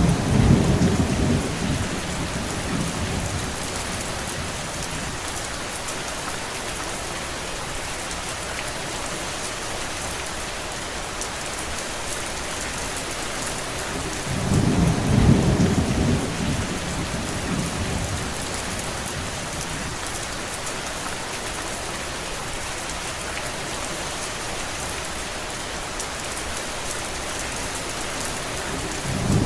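Steady rain, with a low rumble of thunder swelling for a few seconds right at the start and again about halfway through.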